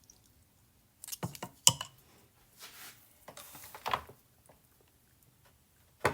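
Sharp clicks and knocks from handling a plastic marinade injector over a raw turkey, with two short hissing sounds in the middle and one more knock, then quiet.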